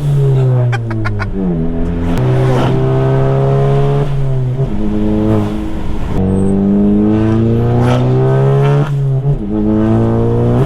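Turbocharged 2.0-litre four-cylinder of a Stage 2 tuned VW Golf GTI Mk7 under hard acceleration. The engine climbs in pitch through each gear and drops back at three quick upshifts. A few sharp clicks sound about a second in.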